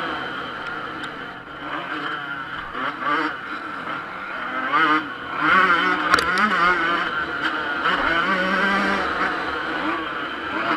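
Yamaha YZ125 two-stroke motocross engine being ridden hard, its buzzing note rising and falling as the throttle is opened and closed. A sharp knock about six seconds in.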